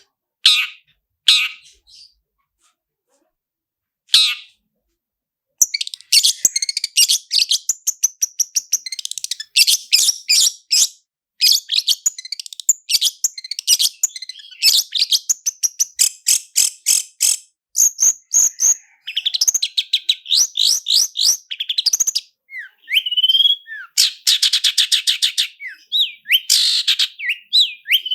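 Long-tailed shrike (cendet) singing. A few short calls are followed by a pause of about three seconds, then a dense run of fast rolling trills and chattering notes. A few sliding whistles come near the end.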